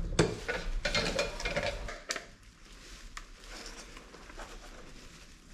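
Clicks and rattles of hands handling and fitting parts of a car's electric window regulator mechanism, busiest for the first two seconds, then only a few light clicks.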